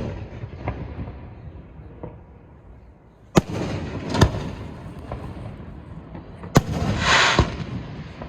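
Aerial fireworks bursting: sharp bangs about three and a half and four seconds in, another near six and a half seconds followed by about a second of crackling, with a rumbling tail between the bursts.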